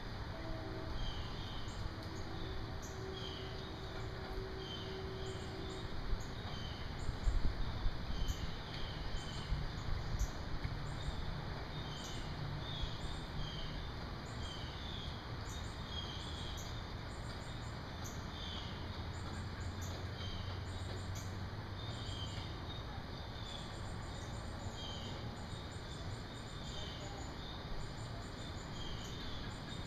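Small bird chirps repeating about twice a second, with faint higher ticks, over a steady low background rumble.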